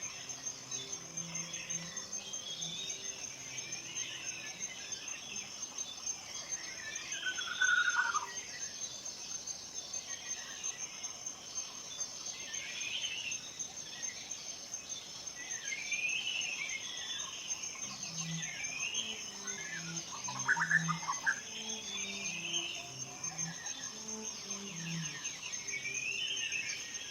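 Forest birds singing short, repeated sweeping phrases over a steady high insect trill. A soft, slow low melody of held notes runs underneath and is clearest in the second half.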